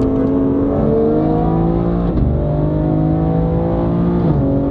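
BMW G80 M3's twin-turbo straight-six accelerating hard, its engine note climbing steadily and dropping sharply at two upshifts, about two seconds in and again near the end.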